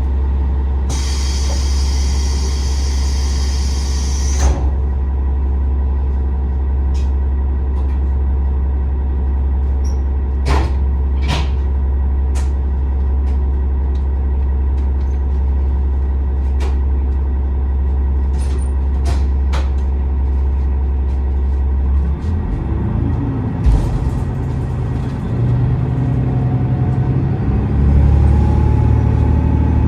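KiHa 47 diesel railcar's engine running with a steady low hum, and a hiss of compressed air lasting about three seconds from a second in. Scattered sharp clicks follow, and about 22 seconds in the engine note changes and climbs as it throttles up.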